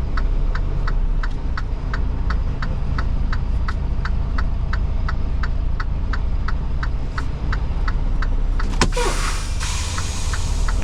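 Semi truck cab: the diesel engine rumbles steadily under a turn-signal clicker ticking about three times a second. Near the end a sharp click is followed by a loud hiss that continues to the end.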